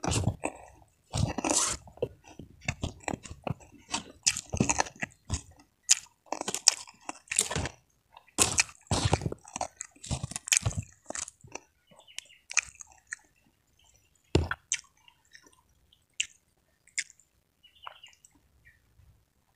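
Close-miked chewing and crunching of a mouthful of food eaten by hand: a steady run of crunches and wet chewing for about the first eleven seconds, then thinning to a few soft mouth clicks.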